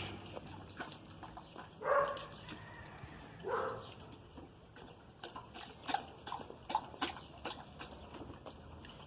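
A dog giving two short barks about a second and a half apart, followed by a run of light clicks or taps.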